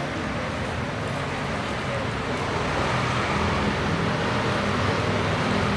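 Steady low rumbling background noise with faint voices in it.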